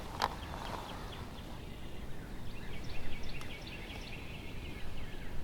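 Small birds chirping in quick, high notes, starting about two seconds in, over outdoor ambience, with a single sharp click just after the start.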